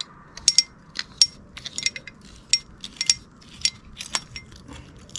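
Small metal parts of a Renault 8/10 starter motor (nut, washers, spring) clinking and clicking against each other as they are handled and taken apart, in about a dozen irregular sharp ticks.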